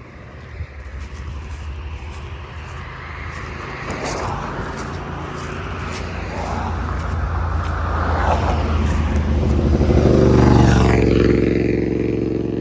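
A motor vehicle approaching and passing, its engine and tyre noise building steadily over several seconds to a loud peak near the end, then easing off.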